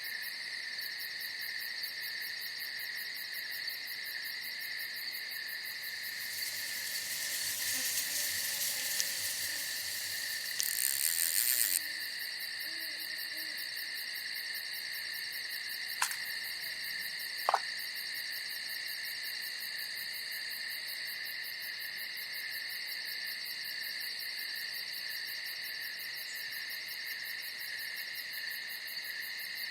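Night insect chorus: a steady, high, continuous trilling. In the first half a louder hiss swells with a short pulsing burst, and past the middle come two sharp clicks about a second and a half apart.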